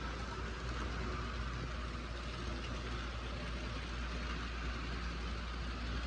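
HO scale TYCO model trains running on their track loops: a steady whir of the locomotive motors with the rumble of wheels on rail and a low hum underneath.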